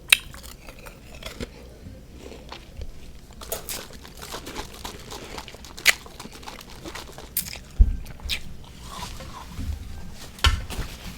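Close-miked biting and chewing of refrozen freezer frost mixed with powdered sugar and whipped cream. Several sharp crunches come a few seconds apart, with softer chewing between them.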